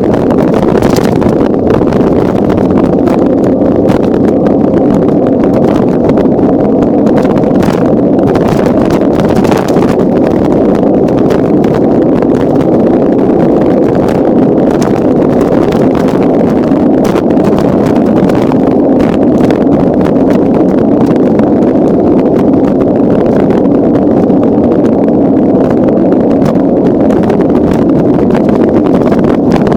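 Wind rushing over the microphone of a camera carried on a moving bicycle: a loud, steady buffeting, with scattered short clicks and knocks.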